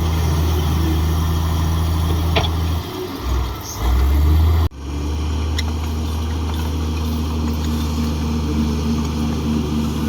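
Komatsu D58 bulldozer's diesel engine running steadily with a low note. About three seconds in, the note dips and wavers, then swells louder for a moment. It breaks off abruptly just under five seconds in, and steady running picks up again.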